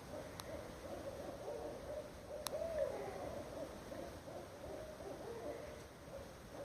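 A low hoot-like sound, warbling continuously up and down in pitch, from an unidentified source.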